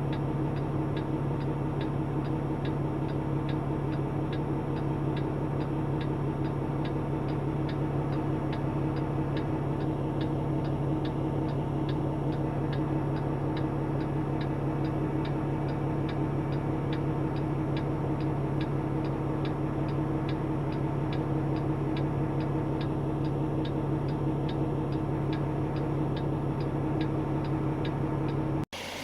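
Semi truck's diesel engine running at a steady idle hum, with an even ticking about twice a second.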